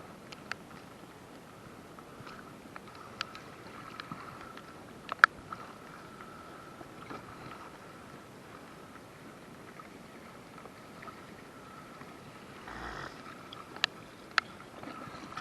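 Kayak on a river: low water noise with a few sharp knocks from the paddle and kayak, the loudest about five seconds in and two more close together near the end.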